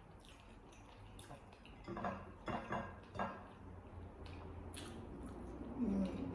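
Chopsticks clicking and scraping against a dish while picking at food, in a handful of sharp taps clustered in the middle.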